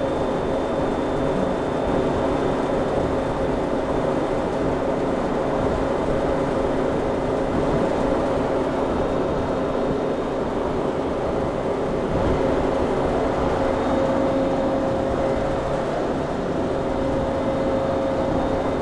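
Commercial reach-in refrigerator's condensing unit running: the compressor and condenser fan make a steady machine hum with a low held tone and its octave, which grows a little stronger over the last few seconds.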